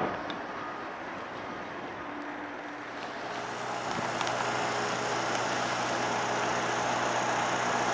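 Street traffic: a steady wash of road noise from passing vehicles, growing a little louder in the second half.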